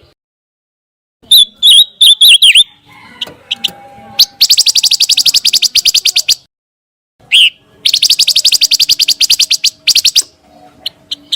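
Pancawarna bird song: a few short, sharp, twisting whistled notes, then two fast rattling trills of about a dozen notes a second, each lasting about two seconds.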